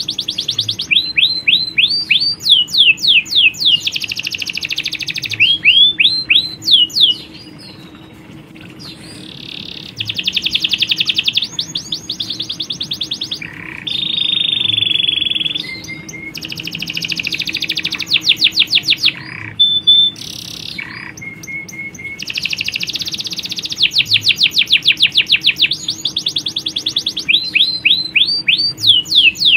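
Domestic canaries singing in long rolling trills of rapid, repeated sweeping notes, broken by short pauses, with a brief steady buzzing trill about halfway.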